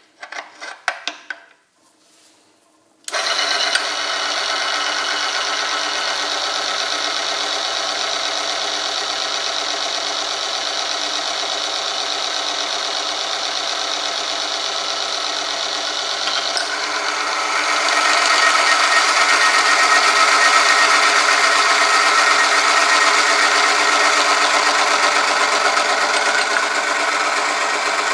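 A few knocks and clicks, then an oil-film strength test machine starts running about three seconds in: a motor-driven rotating shaft rubs against a loaded metal sample bathed in Yacco Galaxie GT 10W60 oil with a steady mechanical whir. About 17 seconds in it grows louder and keeps running at the higher level.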